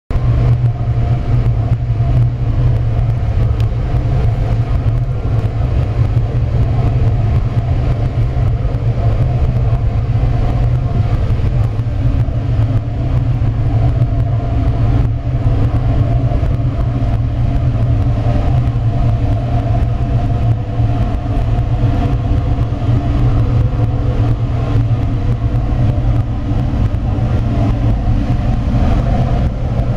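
Biomass gasifier furnace running under test, its burning gas flame and machinery making a loud, steady low rumble with a hum.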